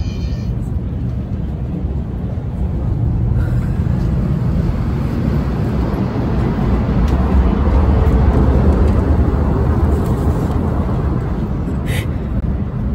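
Running noise of a moving passenger train heard from inside: a steady low rumble that swells louder in the middle while passing through the gangway between coaches. A sharp click near the end.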